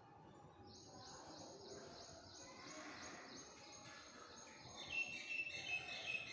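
Faint bird chirping: a quick, even run of high chirps about four a second, with a few louder calls near the end.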